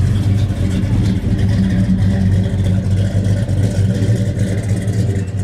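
Chevrolet Chevelle SS's V8 engine running at low revs with a deep, uneven beat as the car drives slowly away.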